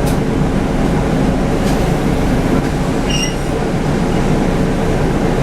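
Scania N250UD double-decker bus on the move, its 9-litre five-cylinder diesel and road noise giving a steady rumble, with a brief high squeak about three seconds in.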